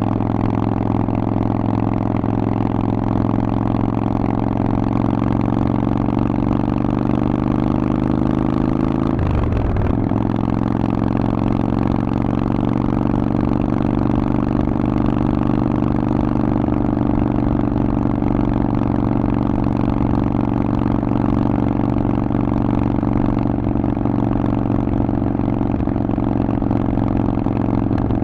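Harley-Davidson Forty-Eight's air-cooled 1200 cc V-twin running steadily under way through a Vance & Hines exhaust, with a brief break in the engine note about nine seconds in.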